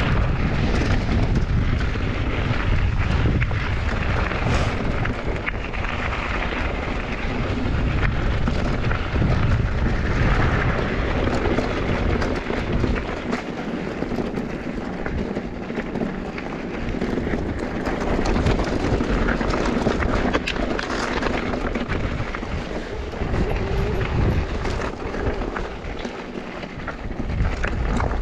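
Mountain bike riding downhill: wind rushing over the microphone and tyres rumbling over a rough trail, with many small clicks and rattles from the bike. The low rumble eases off for a few seconds near the middle.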